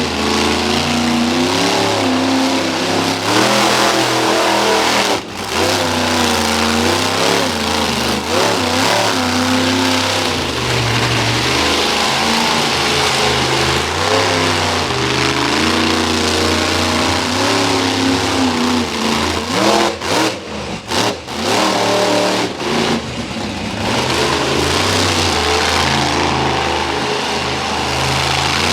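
Monster truck engine revving up and down over and over during a freestyle run, with a few short drops in level about two-thirds of the way in.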